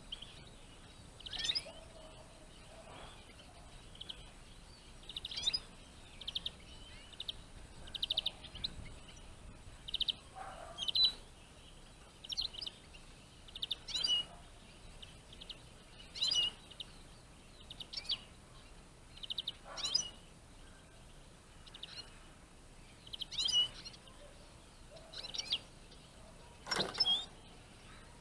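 Eurasian siskins calling and twittering: short high-pitched chirps and quick trills, repeated every second or two.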